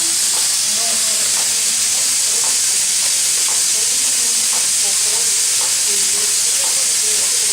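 Steady hiss of steam venting from the L-4600 steam locomotive, an even, unbroken rush that does not change.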